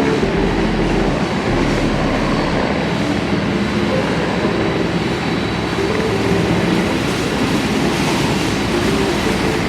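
Steady, loud roar of jet airliner engines, with no breaks.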